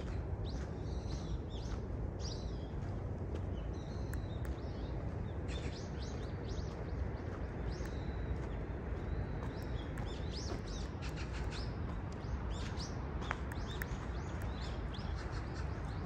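Several small birds chirping and calling with short, quick high notes and a few brief level whistles, scattered through the whole stretch, over a steady low background rumble.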